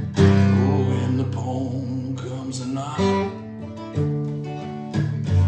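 Acoustic guitar strumming chords and letting them ring, with a strong strum near the start and fresh strums about once a second in the second half.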